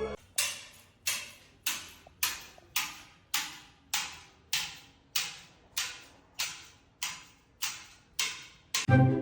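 A steady series of about fifteen sharp ticks, evenly spaced a little under two a second, each dying away quickly, like a clock ticking. Music comes back in near the end.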